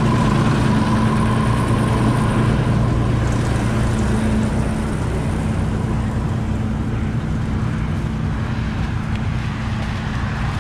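Combine harvester running steadily, a low engine hum with a faint higher whine; the hum and whine ease off about halfway through.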